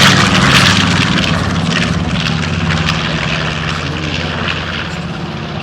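Propeller engine of a T-34 trainer plane passing close overhead, loud at first and then slowly fading as it moves away.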